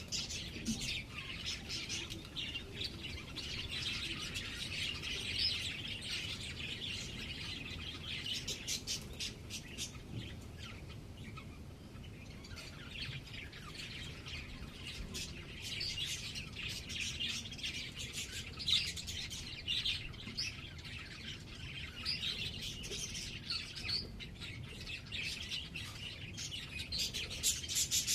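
Small birds chirping continuously in many quick, high, overlapping calls, easing off about halfway through and growing busier again near the end.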